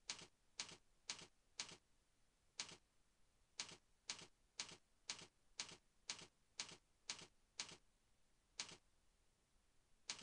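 Faint single keystrokes on a computer keyboard, one sharp click at a time, mostly about every half second, with two short pauses, as text is deleted and retyped.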